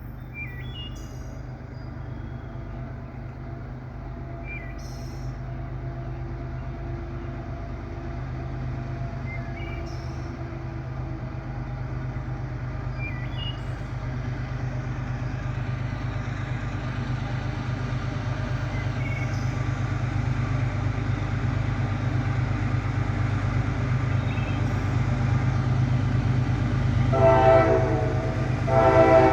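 Approaching diesel freight train, its locomotive rumble growing steadily louder, with a few bird chirps in the first half. Near the end the lead GE ES44AH's K5LA air horn sounds: one long blast, then a second one starting, typical of a grade-crossing signal.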